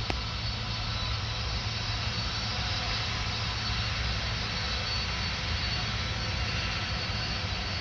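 Jet airliner engines running, a steady rushing noise with a faint high whine held throughout.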